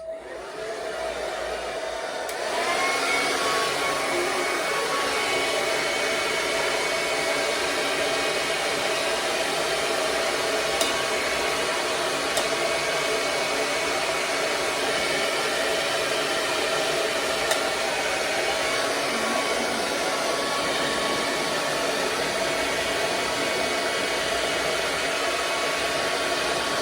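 Handheld hair dryer blowing steadily, growing louder about two and a half seconds in and then holding an even, steady noise with a faint hum.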